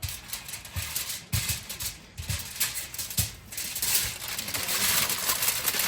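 Aluminum foil rustling and crinkling as it is handled and folded around a potato, with a few soft knocks.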